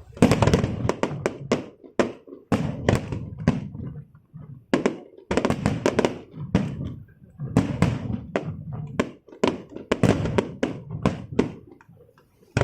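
Fireworks bursting in repeated volleys of sharp cracks and bangs, each volley lasting one to two seconds with short gaps between.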